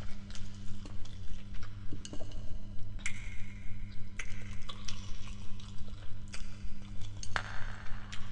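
A person chewing spaghetti close to the microphone, with many small wet mouth clicks and a couple of louder slurping sounds, over a steady low hum.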